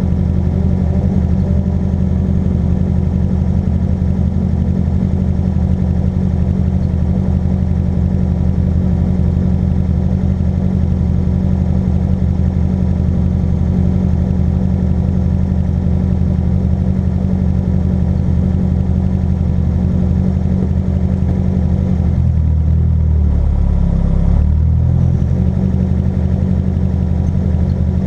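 Car engine running steadily with a deep, even hum; about 23 seconds in its pitch drops and wavers for a couple of seconds, then settles back.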